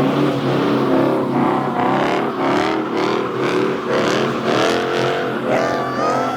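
Car engine revving hard, its pitch rising and falling again and again as the throttle is worked. A thin, high squeal rises near the end.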